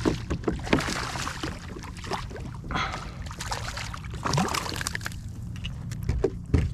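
Water splashing and sloshing against the side of a fishing kayak in irregular bursts, with scattered small knocks and clicks.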